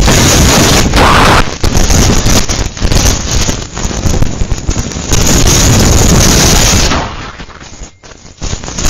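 Strong gusting wind buffeting the microphone, loud and rumbling, easing briefly near the end.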